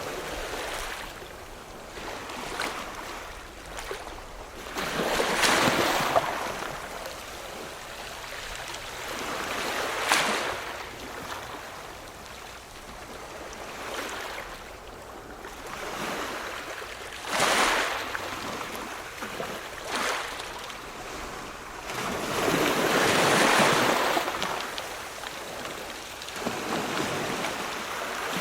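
Ocean surf: waves breaking and washing in, swelling to a louder surge every several seconds and then falling back.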